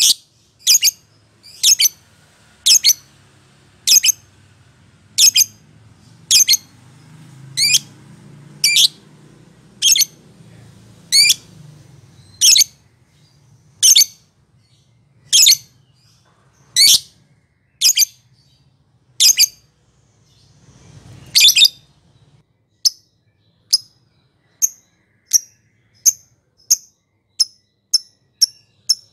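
Lovebird calling with a string of short, sharp, high-pitched chirps, about one a second. About three-quarters of the way through the chirps turn fainter and come more quickly.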